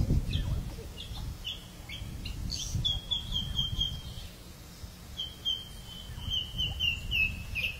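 Birds calling: scattered short chirps, then two runs of quick repeated notes, the first about three seconds in and the second about five seconds in, slowly falling in pitch, over a steady low rumble.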